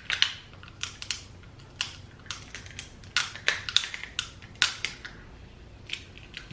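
Crab legs being cracked and picked apart: an irregular string of sharp cracks and clicks from breaking shell.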